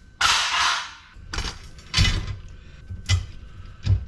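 A brief scraping rush, then about four sharp metallic knocks and clanks spread over a few seconds as a cast-aluminum LED light fixture is worked apart for scrap.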